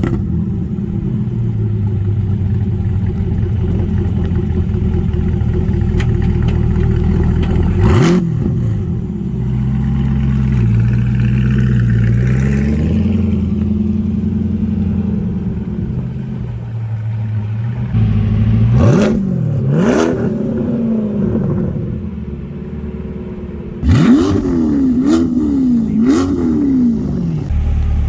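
C8 Corvette V8 through a center-exit track exhaust, idling just after start-up and blipped in sharp free revs: once about 8 s in, twice close together around 19 to 20 s, and three quick blips in a row near the end.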